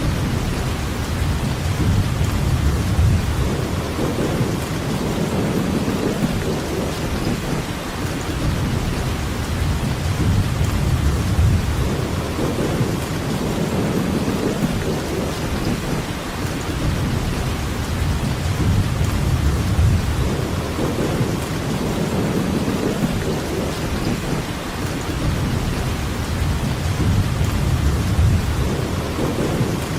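Steady rainfall, a dense even hiss, with a low rumble underneath that swells and fades every few seconds.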